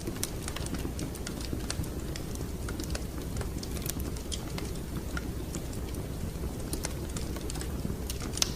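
Wood fire crackling in a fireplace: irregular sharp pops and snaps over a steady low rumble of the burning fire, with one louder pop near the end.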